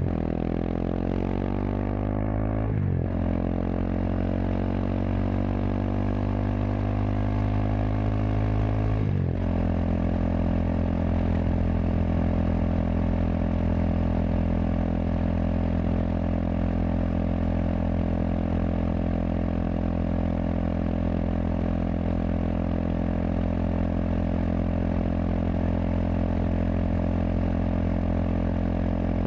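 Kawasaki KLX230SM's air-cooled single-cylinder four-stroke through a K-Factory FRC slip-on silencer, under way. The engine note rises as it pulls, breaks and drops back at an upshift about three seconds in, climbs again to a second upshift about nine seconds in, then holds a steady cruising pitch.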